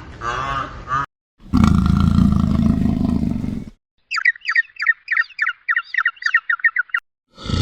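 A run of separately edited animal calls. First a repeated arching call ends, then a loud, rough call lasts about two seconds. Then a small bird gives a rapid series of high chirps, about five a second for about three seconds, which cuts off abruptly.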